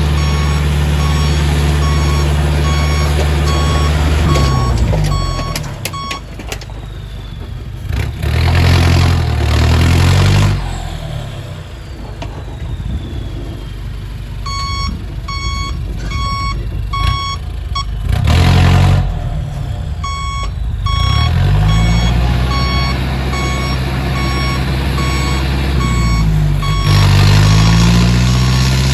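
Hino Mega six-wheel truck's diesel engine revving up and dropping back several times as it tries to reverse through mud. Its reversing alarm beeps in regular pulses through much of it.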